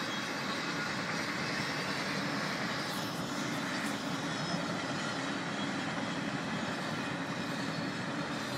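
A long train passing, its cars rolling by in a steady, even rumble.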